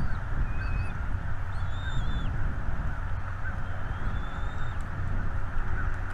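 Small birds giving thin, high whistled calls, short slurred notes repeated several times, some rising in pitch. Beneath them runs a steady low rushing noise, the loudest sound throughout.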